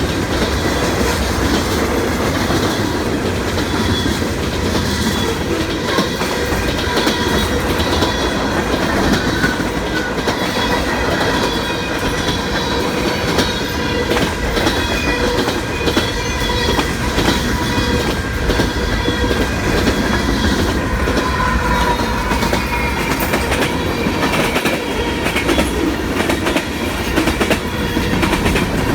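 Freight cars of a passing train rolling by, wheels clacking over the rail joints over a steady rumble, with a thin steady wheel squeal ringing above it.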